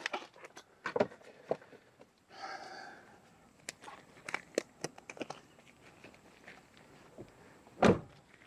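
Gloves being pulled onto hands: scattered small rustles and snaps, with a short rustle a couple of seconds in. A heavier thump near the end.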